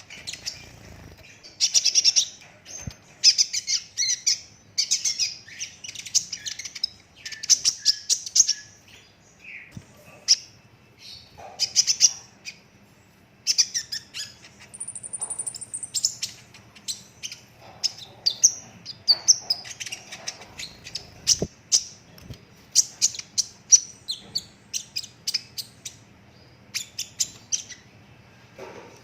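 Kolibri ninja (a sunbird) singing continuously in high-pitched phrases of rapid-fire chips and trills, one after another with only brief gaps.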